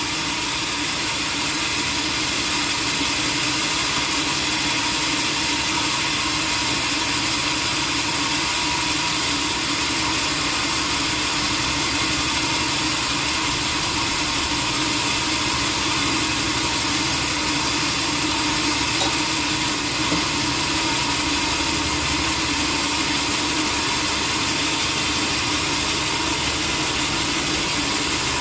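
Sawmill machinery running steadily at a constant pitch and level, with no pauses or changes.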